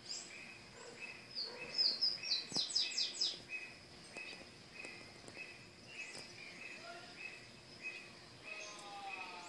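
Garden birds calling: a short chirp repeated about twice a second throughout, a quick run of sharp high chirps about two seconds in that is the loudest part, and a falling series of lower notes near the end, over a faint steady high tone.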